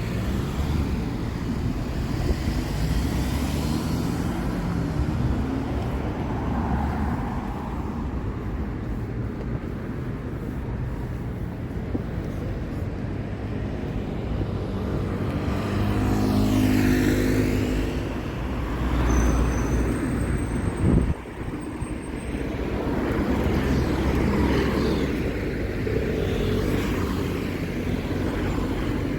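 City street traffic: cars running past on the road, with one louder vehicle engine passing about halfway through.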